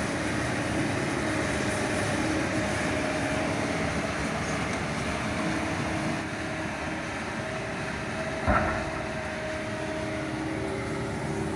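Diesel engine of a hydraulic excavator running steadily while it works, with a single sharp metallic clank about eight and a half seconds in.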